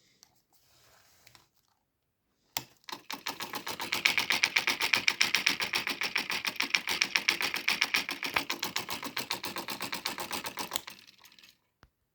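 Homemade electric motor running with a fast, even clicking, many clicks a second. It starts about two and a half seconds in, grows louder, and stops near the end.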